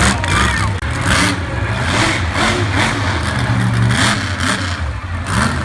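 Monster truck engine running loud and revving in repeated bursts of throttle.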